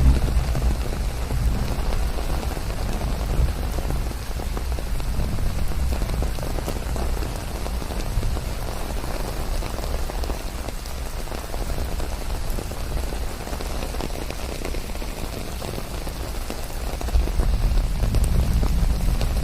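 Steady rain falling, blended with white noise, an even hiss across the whole range. A low rumble underneath grows louder near the end.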